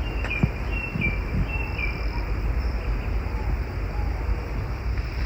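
Outdoor ambience: a bird gives four short, falling notes in the first two seconds over a steady low rumble, with an insect's high buzz coming and going.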